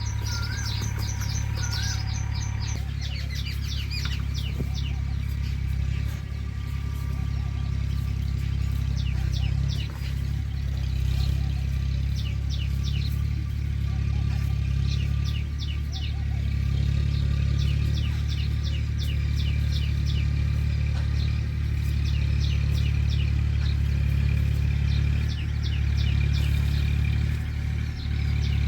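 Small birds chirping in quick repeated runs of high notes, over a loud steady low rumble.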